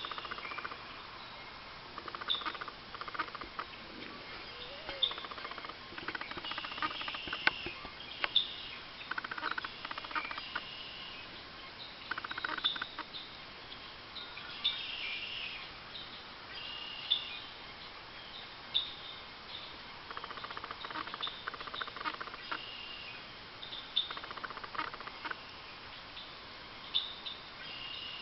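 Eastern bluebirds calling: many short, high chirps scattered throughout, with several bursts of rapid ticking in between.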